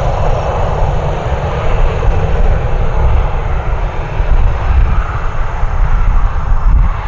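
Boeing 737-800 jet airliner's CFM56-7B turbofan engines, loud and steady with a deep rumble and a faint high whine.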